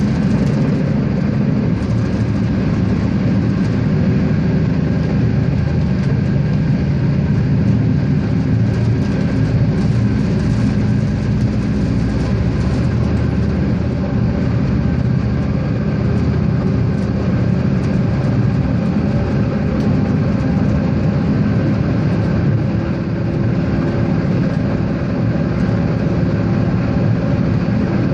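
Regiosprinter diesel railcar under way: a steady engine drone mixed with the running noise of the train on the rails, holding even throughout.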